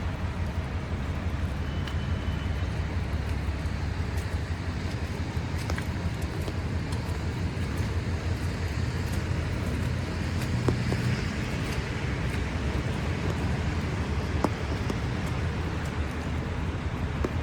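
Steady downtown street traffic noise: a continuous low rumble of vehicles, with a few faint clicks.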